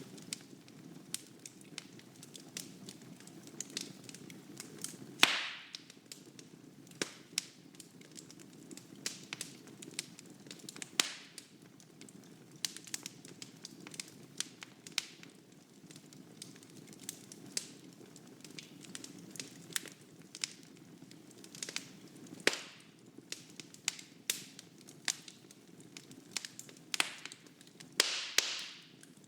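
Fire burning in a fireplace: a steady low rush of flame with frequent crackles and sharp pops, several of them loud, the loudest about five seconds in.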